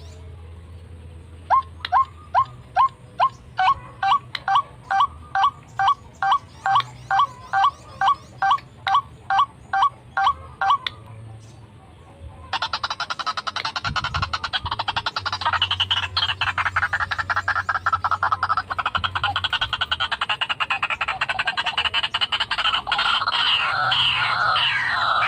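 White-breasted waterhen calling: a steady run of short, sharp, upward-sliding notes, about two or three a second, which stops after about ten seconds. After a brief pause comes the loud, harsh, jumbled croaking chorus typical of the species, which carries on to the end.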